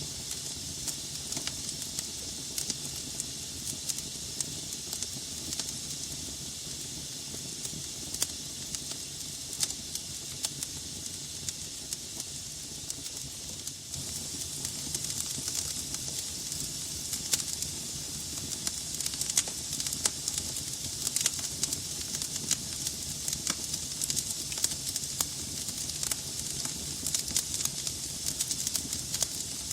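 Wood fire burning in a fireplace: a steady hiss of flames with frequent sharp crackles and pops from the burning logs, crackling more often and louder in the second half.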